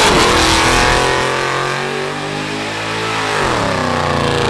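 Car engine revving hard as the car accelerates away. Its pitch falls about three seconds in, then climbs again.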